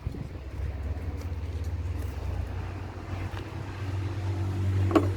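Ford F1000 pickup's engine running at low revs: a steady low hum with an even pulse that grows a little louder about four seconds in. A short sharp knock comes near the end.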